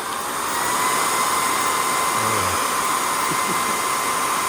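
Cordless stick vacuum running: a high, steady motor whine over rushing air. A click sounds right at the start, then the whine climbs in pitch over the first second as the motor spins up, and holds steady.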